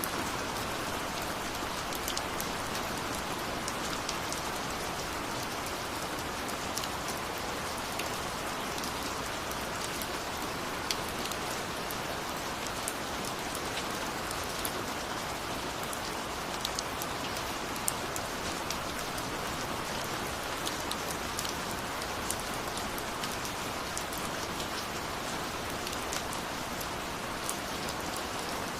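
Steady rain falling, a constant hiss with scattered sharp drip and drop ticks on a surface.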